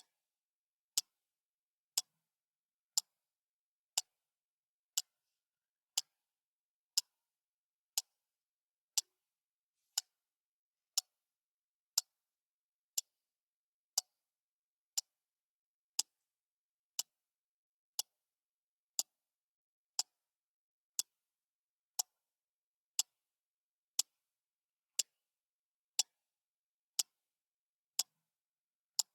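Clock ticking, one sharp tick every second, steady and even.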